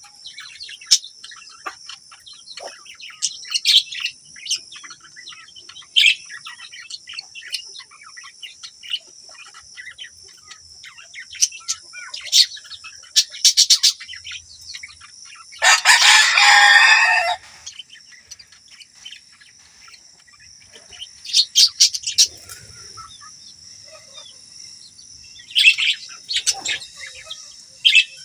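A flock of budgerigars chirping and chattering without a break, with sharp chirps every second or two and one loud, harsh call of about a second and a half about halfway through.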